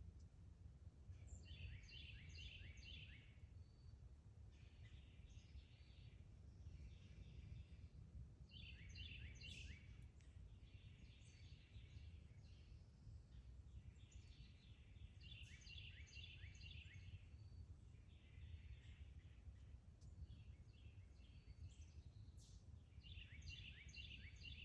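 Faint songbird singing short phrases of quick repeated notes, a phrase every few seconds, over a steady low rumble of outdoor background noise.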